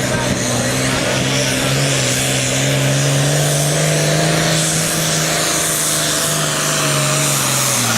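International 1486 pulling tractor's turbocharged diesel engine running hard at full throttle under the load of the sled, holding a steady pitch. The pitch starts to fall right at the end as it throttles back.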